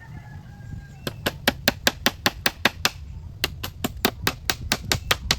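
Rapid, evenly spaced knocks of a hand tool striking, about five a second, starting about a second in, with a brief pause near the middle.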